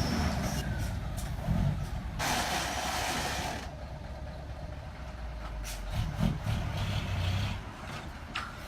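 Truck engine running with a low, steady rumble, and about two seconds in a hiss that lasts a second and a half, like air being released.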